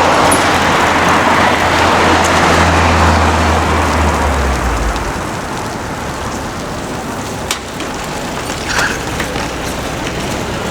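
A road vehicle passing close by: a low engine hum and tyre noise that fade away about halfway through, leaving general street traffic noise with a couple of sharp clicks.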